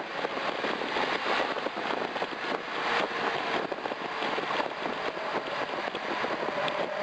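BMW M6's V10 through a Meisterschaft GT quad-tip exhaust on the road, off the throttle: the engine note gives way to a rough, crackly rush of exhaust, wind and road noise. Near the end a rising engine note comes back as it pulls again.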